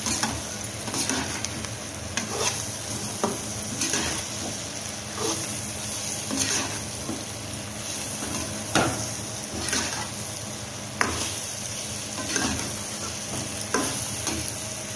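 Bitter gourd and onions frying in oil in a kadhai with a steady sizzle, while a metal spatula scrapes and knocks against the pan about once a second as the mixture is stirred.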